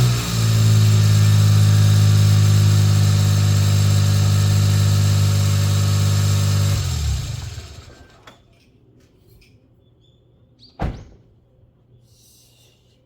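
Suzuki Jimny JB23's 660 cc turbocharged three-cylinder engine, fresh spark plugs fitted, idling steadily, then switched off about seven seconds in and running down. A single thump comes near the end.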